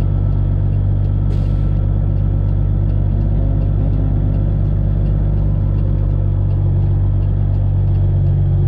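Straight-piped Detroit diesel engine of a Freightliner Classic XL semi truck idling steadily, heard from inside the cab. A short faint hiss comes about a second in.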